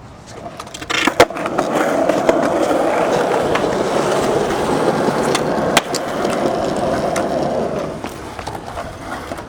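Skateboard wheels rolling over pavement, a steady rolling rumble that sets in after two sharp clacks of the board about a second in, with another click near the middle, and fades near the end.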